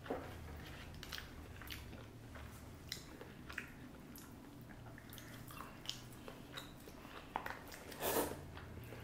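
Close-miked chewing and biting, with small wet mouth sounds and short clicks. There is one louder slurp of noodles about eight seconds in.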